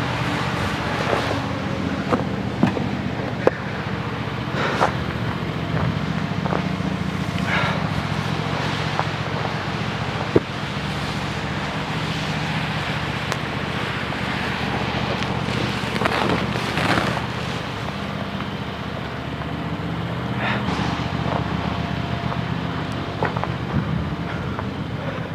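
A motor or engine running steadily, with scattered knocks and clanks over it, louder around three seconds in and again around seventeen seconds in.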